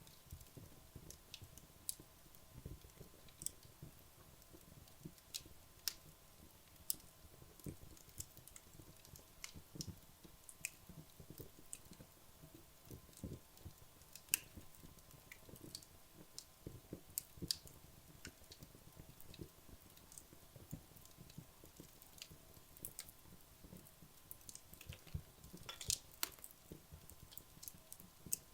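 Wood logs burning in a fireplace: scattered sharp crackles and pops, several close together at times, over a soft low flutter of the flames.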